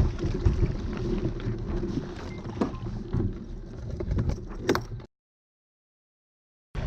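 Wind buffeting the microphone over water sounds from a small sailing dinghy under way, with a few short knocks. The sound cuts out to dead silence for about a second and a half near the end, then comes back.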